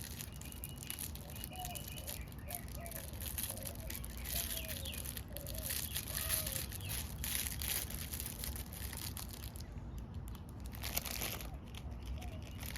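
Plastic packaging crinkling and light clicks as small model parts are handled, with faint chirping in the background.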